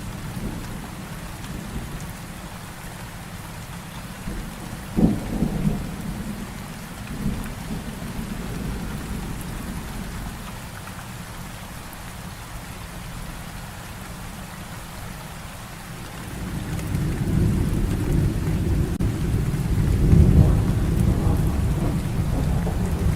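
Heavy rain falling steadily in a thunderstorm. A sharp thunderclap sounds about five seconds in, and a long, low rumble of thunder swells up about two-thirds of the way through and is loudest near the end.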